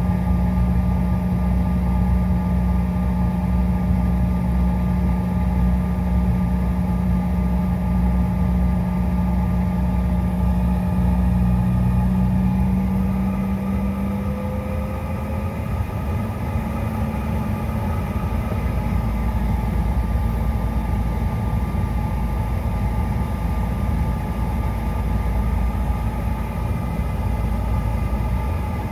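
Cabin noise of a CRJ900's rear-mounted GE CF34 turbofan engines running steadily: a continuous low rumble with steady hum and whine tones. About halfway through, the strongest low hum drops away and a higher tone glides slightly upward as the engine note changes.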